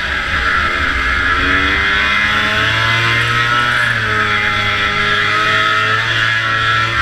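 Racing snowmobile's two-stroke engine running hard, its pitch rising and then falling as the revs climb and ease off.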